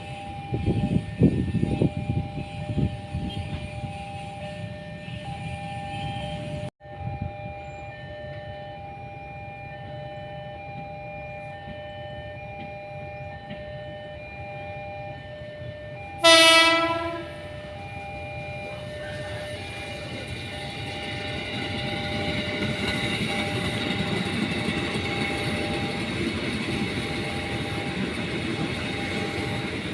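A level crossing's electronic warning tones sound steadily, with repeating higher beeps. About sixteen seconds in, a train horn gives one short, loud blast. The train's rumble and wheel noise then build up as it approaches.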